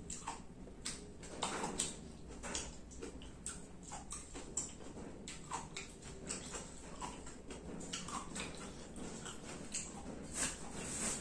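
Wet chewing and lip-smacking of a person eating, short irregular clicks and smacks, with a louder breathy hiss near the end.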